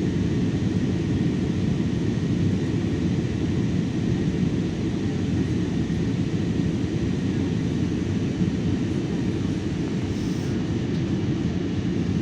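Steady low rumble of a passenger airplane's cabin in flight, engine and airflow noise with no change.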